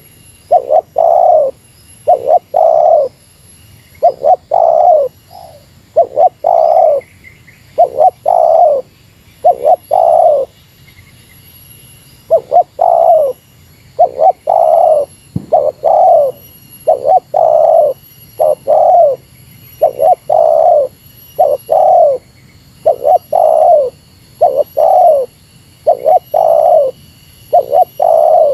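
Spotted dove (tekukur) cooing over and over in short phrases of two or three low coos, with a pause of about a second and a half near the middle. Faint high chirps of other birds sound underneath.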